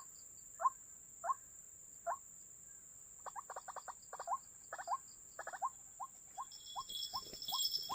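White-breasted waterhen calls: short rising notes repeated about one and a half times a second, breaking into a quicker, jumbled run from about three seconds in, then settling into a faster even series. A hiss builds near the end.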